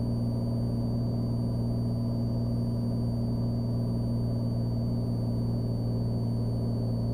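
Steady low drone of a Cessna Skylane's single piston engine and propeller in flight, heard from inside the cabin, with a faint thin high whine over it.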